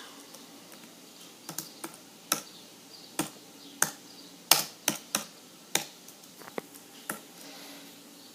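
Keys being pressed one at a time, irregular sharp clicks of someone typing a search.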